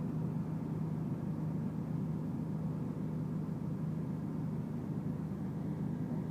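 Large industrial wood chipper running steadily, a continuous deep engine drone with no breaks.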